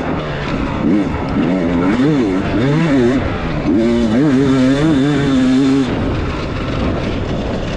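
Beta 300 two-stroke dirt bike engine revving up and down as the throttle is worked over rough ground, its pitch rising and falling every half second or so. It eases off to a lower, quieter run about six seconds in.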